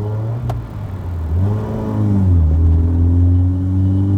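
Naturally aspirated 1.5-litre four-cylinder engine of a modified Honda City pulling under acceleration: the revs climb about a second in, drop sharply once near halfway at a gear change, then rise steadily again.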